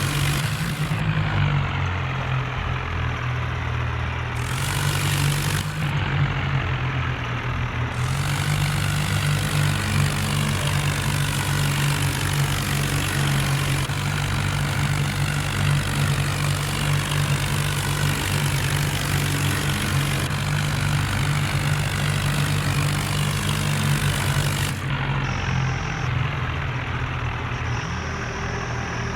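Tractor engine running steadily, with a louder hiss joining in from about eight seconds in until near the end.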